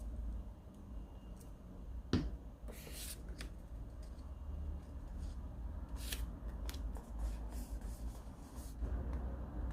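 Paper and stationery being handled at a desk: short scratchy paper rustles, with one sharp click about two seconds in, over a low steady hum.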